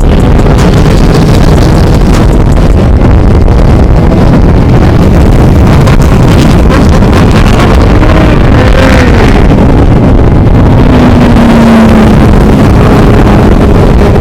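Motorcycle and dirt bike engines running, with heavy wind noise on the microphone; loud and steady throughout.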